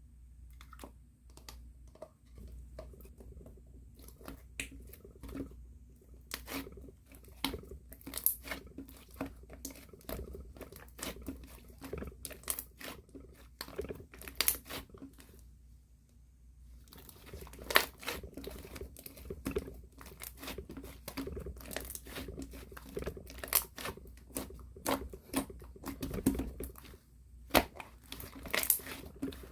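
Hands squishing and stretching a two-layer slime, giving a dense run of sticky clicks and crackling pops. It goes quiet for a moment in the middle and again briefly near the end.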